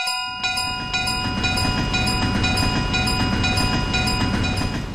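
Level-crossing warning bell ringing about twice a second while a passing train's rumble builds from about half a second in and soon covers it. The sound fades near the end.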